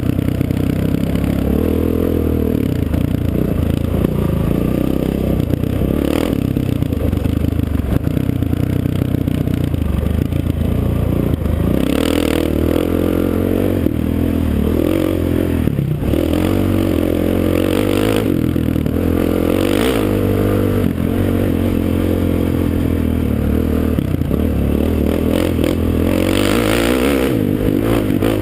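Off-road vehicle engine under way, its pitch rising and falling continually as the throttle is worked. A few brief scrapes and rattles come in along the way.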